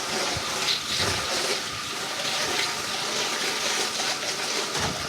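Pressure washer spraying water against a house's exterior: a steady hiss and splash of the jet on the walls.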